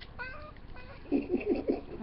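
Domestic cat vocalising: a couple of short meows, then a louder, choppy run of calls in the second half.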